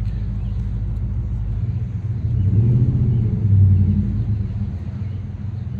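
A motor vehicle's engine rumbling past, swelling about two seconds in, loudest a little after the middle, then fading, over a steady low engine-like hum.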